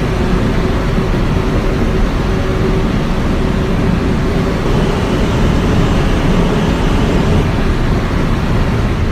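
Steady rumble inside a moving R160A subway car: wheels running on the rails, with a faint steady tone.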